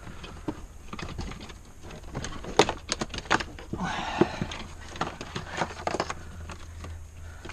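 Irregular small clicks and knocks from hands handling and prying car interior trim pieces, with a short rustling scrape about four seconds in.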